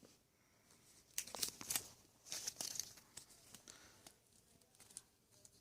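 A folded paper instruction manual being handled and opened out, with bursts of rustling and crinkling paper, loudest in the first half.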